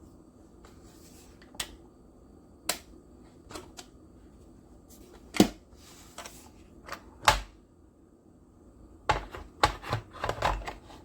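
Ovente glass electric kettle heating water: a steady low hum with irregular sharp clicks and ticks, which come thicker near the end.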